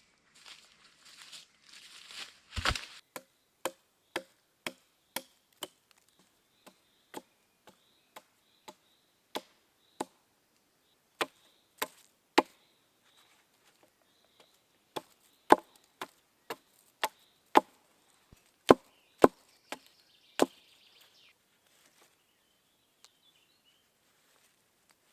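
Wood being chopped with short, even strokes, about two sharp knocks a second, with a brief pause midway and the hardest blows in the second half; a louder crack starts the run after some rustling.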